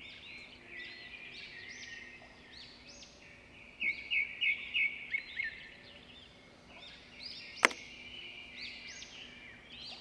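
Small birds chirping, with a run of quicker, louder chirps about four seconds in and a single sharp click a little later.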